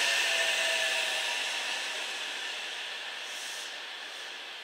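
JR West 227 series electric train running away along the track as its last car goes by: a rolling hiss with a faint whine in the first second, fading steadily as the train draws away.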